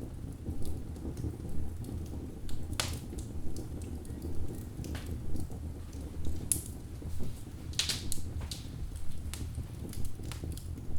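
Wood fire burning in a fireplace: a steady low rumble of flames with irregular crackles and sharp pops from the logs, the loudest pops about 3, 6.5 and 8 seconds in.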